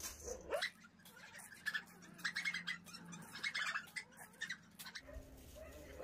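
A string of short high chirps and yips from the animals: birds chirping, mixed with dogs whining, with one short rising whine about half a second in.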